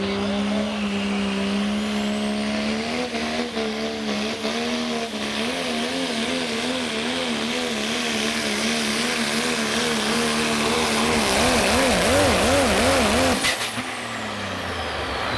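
Pro Stock diesel 4x4 truck's engine running at full throttle during a sled pull, its pitch steady at first and then wavering up and down in widening swings. About thirteen seconds in it cuts off suddenly and winds down in falling pitch.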